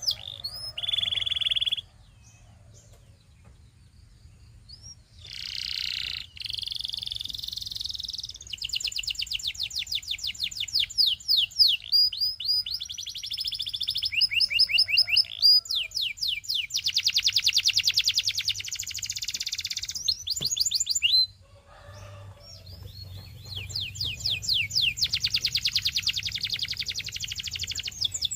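Canary singing in phrases of rapid trills and rolls, very fast repeated notes, with short pauses between phrases.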